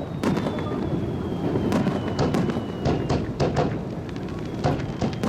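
Fireworks display: a rapid, irregular run of sharp bangs and crackles from bursting shells, over a steady low din.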